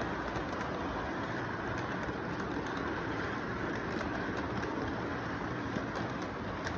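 Model train running along its track: a steady rumble with faint fine ticking, under continuous background noise.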